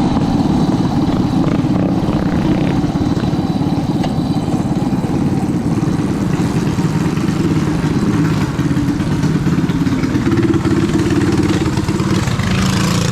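A vehicle engine running steadily at a fairly constant pitch, loud and close.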